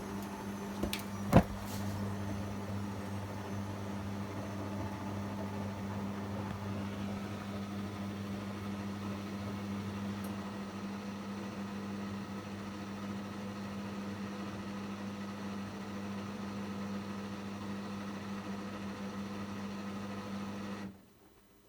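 Bosch Avantixx 7 WAQ2849S washing machine running with a steady hum, a sharp click about a second and a half in, then stopping abruptly near the end as its programme winds down.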